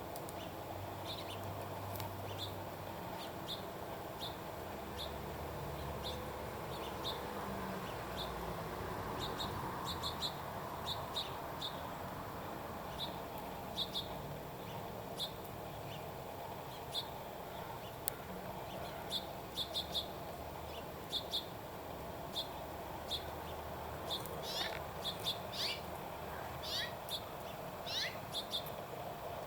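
Small birds chirping: short, high, single and paired chirps every second or so, with a few longer falling calls near the end, over a steady background hiss.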